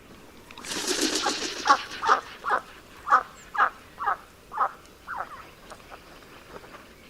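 An animal calling repeatedly: about eight short calls, roughly two a second, growing fainter after about five seconds.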